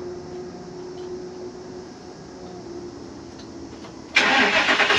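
Plow truck's engine cranking and firing on a cold start after sitting unused for months, catching suddenly about four seconds in and running loudly.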